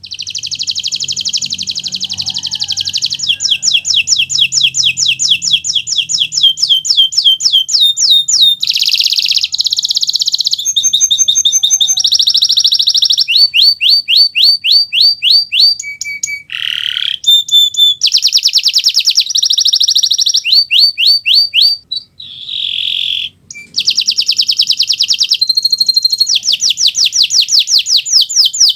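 Kenari Nusantara canary in continuous full song: long runs of rapid trills and rolls, each phrase a fast string of repeated notes, switching to a new note type every second or two, with a few brief breaks.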